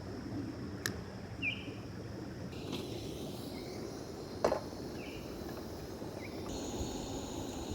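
Steady rush of a flowing creek, with two short high chirps and a few small clicks over it.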